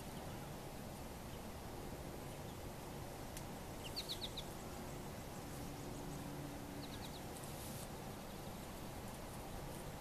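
Small bird giving short, quick, high chirps in two brief runs, four notes about four seconds in and three more about seven seconds in, over a faint steady low background rumble.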